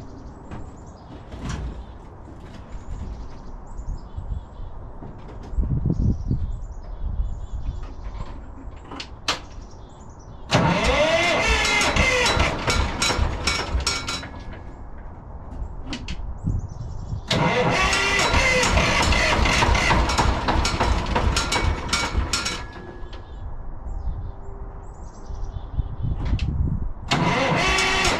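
Cummins diesel engine of a Brockway truck being cranked by its starter motor in bursts: one of about three and a half seconds, a longer one of about five seconds, and a third starting near the end.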